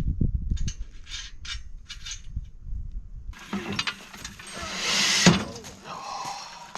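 Steel sawmill parts and bolts clinking and thudding as the head unit's brackets are handled and fitted by hand. A rushing noise swells into a sharp knock about five seconds in.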